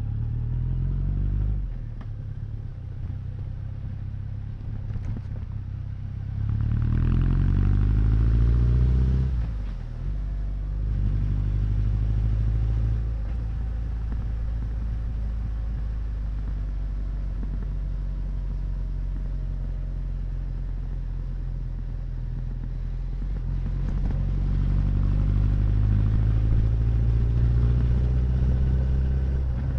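Honda CB1100's air-cooled inline-four exhaust under way. It climbs in revs a few seconds in and cuts off sharply, then holds steady before climbing again near the end.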